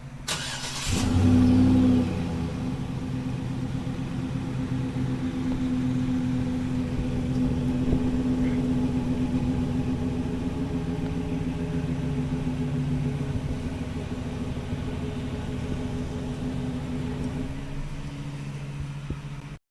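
Chevy Silverado's 5.3-litre Vortec V8 breathing through a Gibson dual cat-back exhaust, starting up with a short louder flare about a second in, then settling into a steady idle. It cuts off suddenly near the end.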